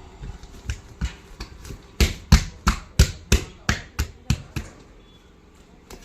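Repeated hammer blows on a truck tyre and its steel rim while the tyre is being taken off or fitted. A few lighter taps come first, then a run of about nine hard strikes at roughly three a second, each ringing briefly.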